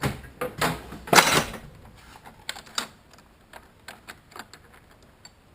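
Metal tools and engine parts clinking and clattering as they are handled, with several sharp knocks in the first second and a half, then scattered lighter ticks that thin out.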